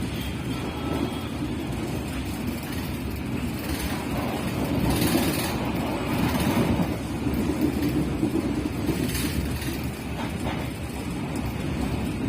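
Passenger train in motion: a steady rumble of the carriage and its wheels running on the rails, with a brief louder rush about five seconds in and again near nine seconds.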